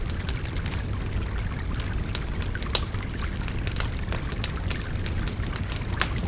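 Wood fire crackling with frequent sharp pops, one louder pop a little before the middle, over the steady babbling of a river.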